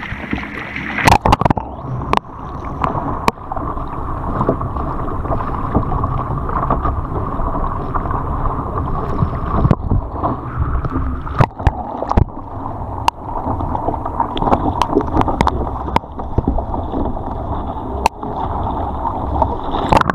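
Water splashing and gurgling around a kayak on the move, over a steady low rumble, with scattered sharp knocks about once a second or two.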